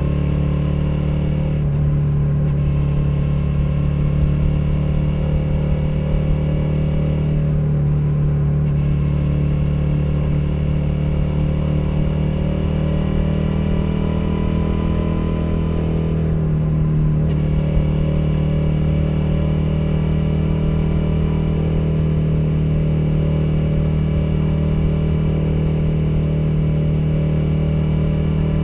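2021 Suzuki SV 650's 645 cc V-twin engine under way at steady cruising revs, heard from a microphone under the seat. The engine note eases off briefly three times.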